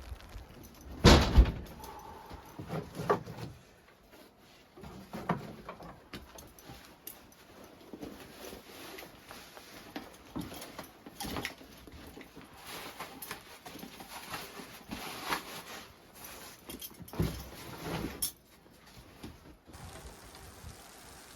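A series of knocks and thumps from objects being handled, the loudest a heavy double thump about a second in, with lighter clicks and rustling between them.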